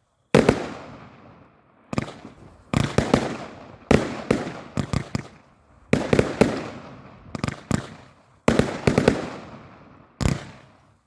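50-shot Pulse Pounder 1.4G salute cake firing: sharp, loud bangs in quick clusters of two to four, a new cluster every second or so, each trailing off in echo.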